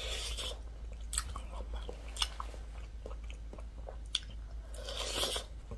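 Biting into a spicy sauce-coated pork rib and chewing it, with many small scattered clicks of the mouth and a brief louder bite near the start and again about five seconds in.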